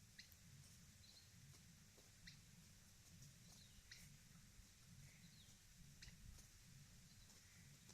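Near silence: a low hum with faint scattered clicks and a few faint, short, high chirps.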